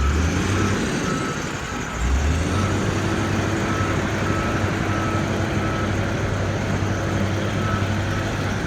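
Diesel engine of heavy road-construction machinery running, getting louder about two seconds in and then holding steady. A reversing alarm beeps repeatedly over it.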